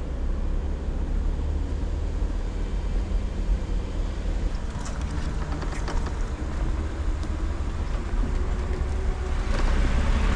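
Jeep Wrangler driving slowly along a dirt trail: a steady low engine and drivetrain rumble, with a few sharp clicks or knocks around the middle and a rise in noise near the end.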